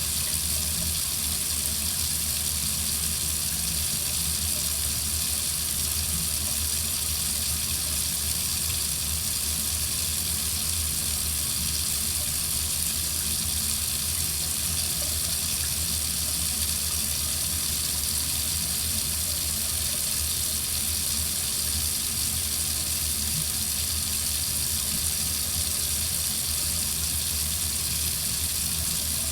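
Water running steadily from a faucet: a continuous, even hiss with a low rumble underneath, unchanging throughout.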